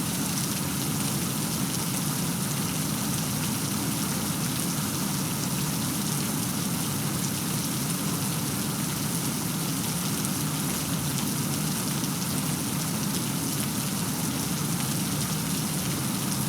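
Steady heavy rainfall, an even hiss of rain with a low rumbling undertone.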